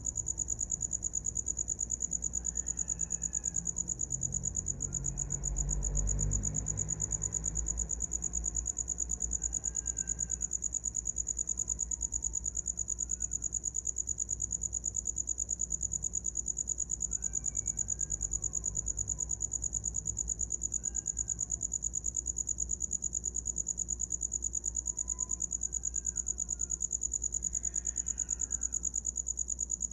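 A cricket chirping without pause: a shrill, high trill of rapid, even pulses. About six seconds in, a brief low rumble rises under it.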